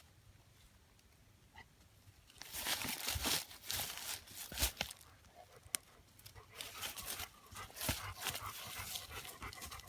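Old dog huffing and panting hard in two loud, ragged stretches, with rustling and crackling close by.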